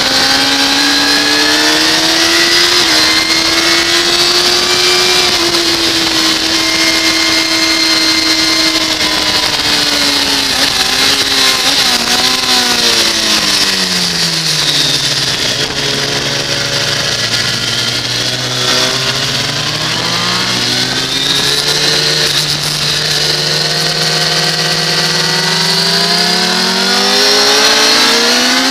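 2006 Kawasaki ZX-10R's inline-four engine heard from on board at track speed, with wind rush over the mic. The engine note holds high, then drops away over a few seconds as the bike slows for a corner, stays low, and climbs again as it accelerates out near the end.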